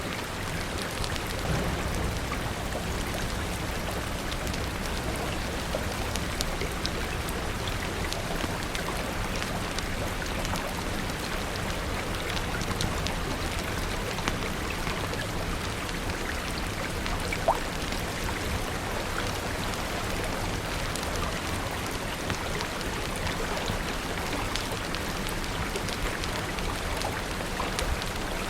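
Steady rain falling, dense and even, with many small scattered ticks and pops through it and one sharper pop about two thirds of the way in. A low rumble runs under the rain for the first several seconds.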